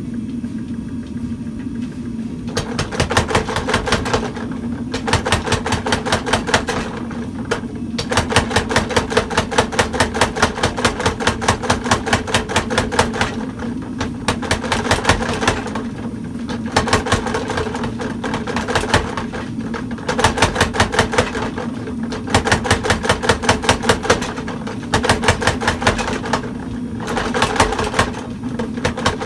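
Old mechanical power hammer striking hot steel in runs of rapid, evenly spaced blows, each run lasting a few seconds. The motor hums steadily in the pauses between runs.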